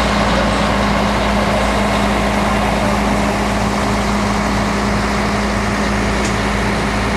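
Fire engine's diesel engine idling steadily with a low, even rumble.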